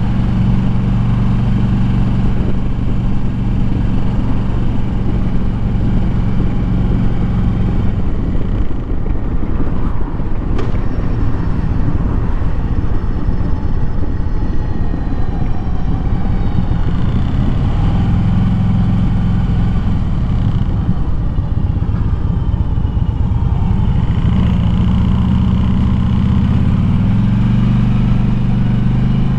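2007 Harley-Davidson Street Glide's V-twin engine running on the move, with road and wind noise. The low engine note drops back and picks up again a few times as the throttle changes.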